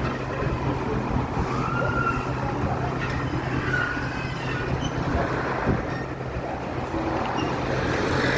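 Engine running with a steady low hum, with a few faint short wailing tones about two and four seconds in.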